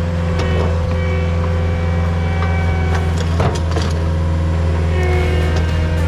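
An engine running steadily with a deep, even hum, with scattered short clicks and knocks over it.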